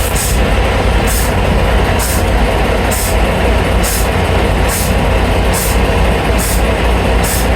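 Semi truck's diesel engine idling with a steady low rumble, and a short hiss of air repeating a little faster than once a second.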